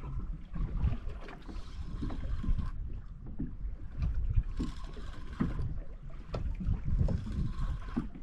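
Wind buffeting the microphone and water washing against the hull of a small boat at sea, the hissing wash swelling and fading about every two seconds.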